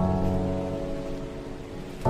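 Slow background music: one held chord fading away, over a steady rain sound.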